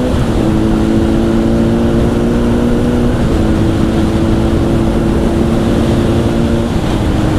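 Honda CBR1000 inline-four running at a steady cruise through a Two Brothers exhaust, its note dropping slightly in pitch a few times. Heavy wind rush on the helmet mic runs underneath.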